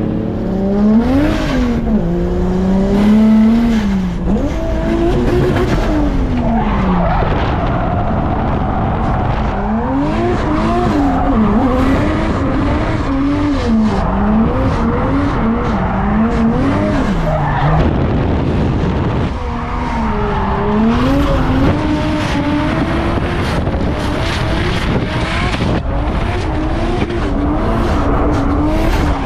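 Turbocharged RB25 Neo straight-six with a G30-660 turbo, rated at about 330 kW, revving hard while drifting, its pitch rising and falling every second or two, over steady tyre squeal and skid noise. The revs drop briefly about two-thirds of the way in.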